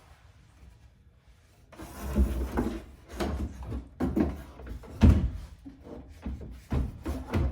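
Wooden bed frame knocking and thudding against the inside of a car's cargo area as it is loaded and fitted, a series of irregular bumps starting about two seconds in.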